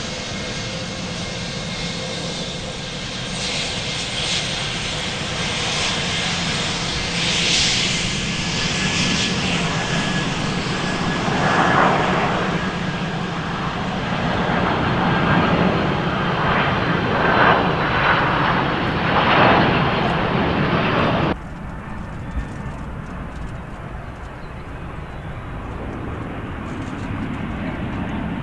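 Airplane engines running loud and steady, swelling and easing several times. About three quarters of the way through, the sound drops suddenly to a quieter, duller engine noise.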